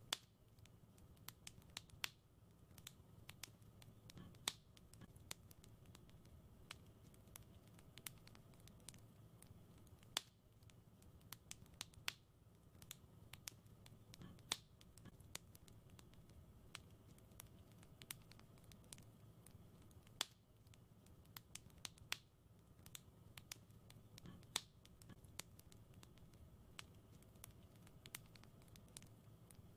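Wood fire in a fireplace crackling: a steady scatter of small sharp pops and snaps, with a louder pop every two seconds or so, over a soft low rumble.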